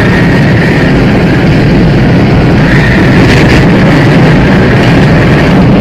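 Loud, steady rushing wind of a tornado sound effect, with a faint high whistle running through it.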